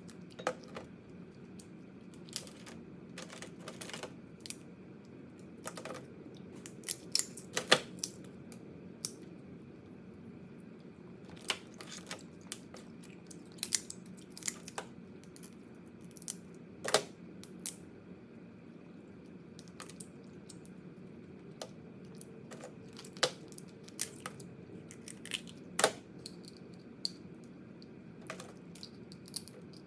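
Crab being eaten: irregular sharp cracks and clicks of shell being bitten and picked apart, with chewing, a few cracks much louder than the rest.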